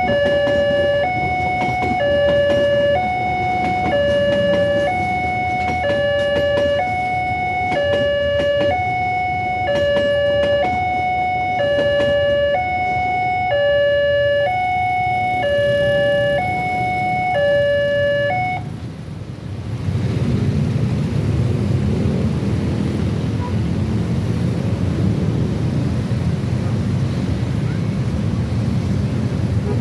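Railroad level-crossing warning alarm sounding a two-tone signal that alternates between a lower and a higher tone about once a second. It stops about 18 seconds in, and a steady low rumble follows.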